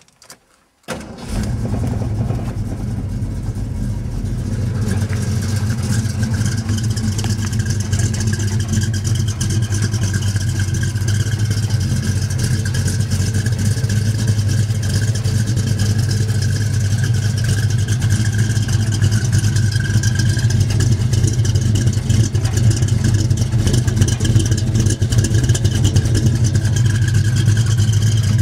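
Ford Mustang engine starting about a second in, then idling steadily through its exhaust.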